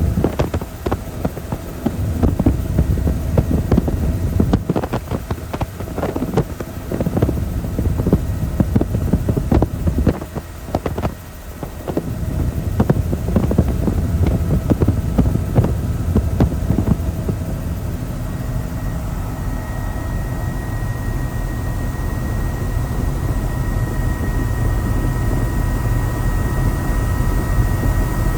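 Helicopter in flight, heard from on board as a steady low rumble with wind buffeting the microphone. The buffeting is gusty through the first two-thirds, then settles, and a faint steady whine comes in near the end.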